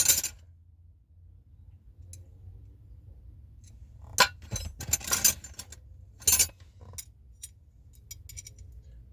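Metal hand tools clinking and clattering as wrenches are picked out and tried on a fitting. A few louder clatters come in the middle, followed by lighter ticks near the end.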